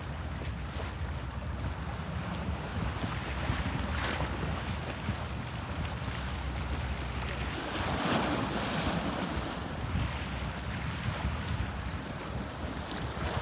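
Sea waves washing and splashing, with a bigger splash about eight seconds in, over wind on the microphone and a steady low rumble underneath.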